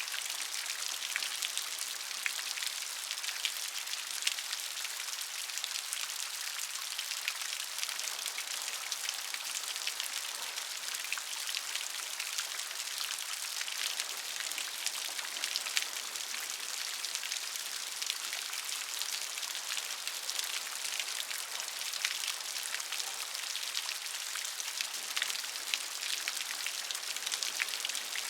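Steady rain, with many separate drops pattering on a surface.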